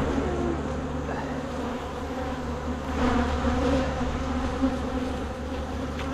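Many honeybees buzzing steadily around an open hive during an inspection. Now and then the pitch of single bees bends briefly as they fly close past.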